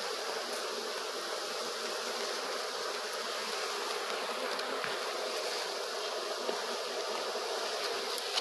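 Steady buzzing hum of a large open-air honeybee colony swarming around the comb as the beekeeper works it, with a few faint clicks.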